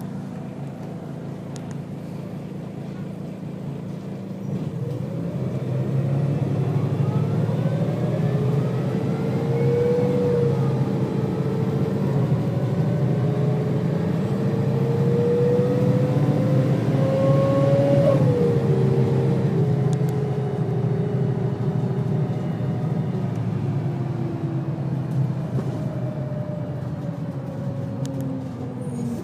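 Volvo B6BLE bus's six-cylinder diesel and ZF automatic gearbox pulling hard after a kick-down, getting louder about five seconds in. The whine climbs steadily in pitch, drops sharply near the middle as the gearbox changes up, then winds down as the bus eases off.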